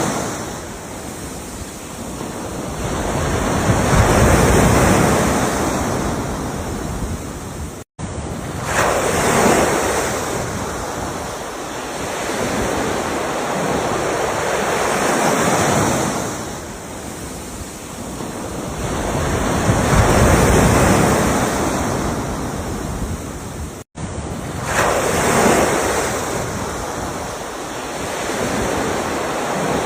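Ocean waves breaking and washing ashore, a surge swelling and fading every five seconds or so. The sound cuts out for a split second twice, about a quarter of the way in and again about four-fifths of the way through.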